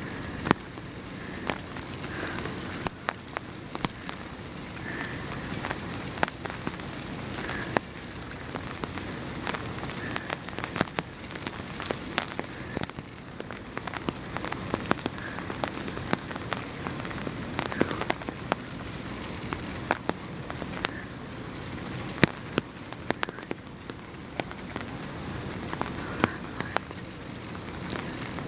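Steady rain falling, with many sharp individual drops tapping close by at irregular moments.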